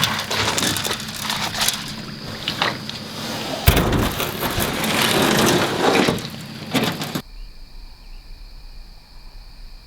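Loud clattering, knocking and rustling of gear being handled, which cuts off abruptly about seven seconds in, leaving crickets or other insects chirping steadily in the dark.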